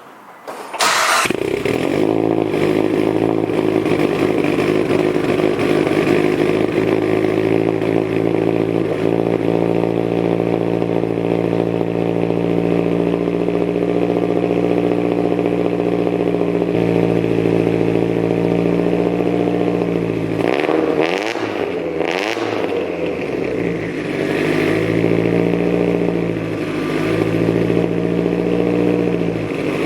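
A big-turbo Mitsubishi Lancer Evolution IX's turbocharged 2.0-litre 4G63 inline-four fires up about a second in and settles into a steady idle. Around two-thirds of the way through it is blipped twice, the pitch rising and falling, then it drops back to idle.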